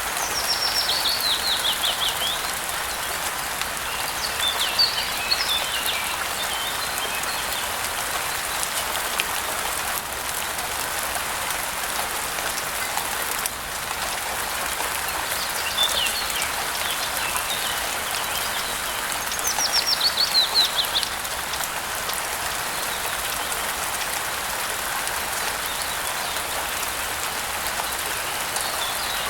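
Steady rain falling, an even hiss, with birds calling over it. Twice a bird gives a fast run of notes that falls in pitch, once near the start and again about two-thirds through, with a few short chirps in between.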